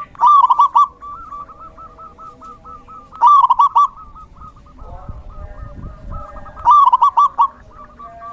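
Zebra dove (perkutut) cooing: three loud phrases of quick coo notes about three seconds apart, over a steady train of softer, evenly repeated notes. A low rumble comes in about five seconds in.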